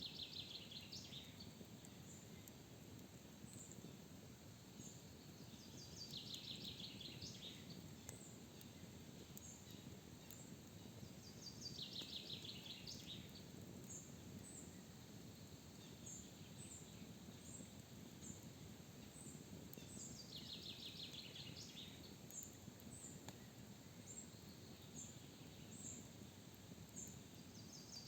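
Forest birdsong: a songbird repeats a short, descending trilled song every six to eight seconds, while another bird gives faint, short, high chirps. A quiet, even background hiss of forest ambience lies underneath.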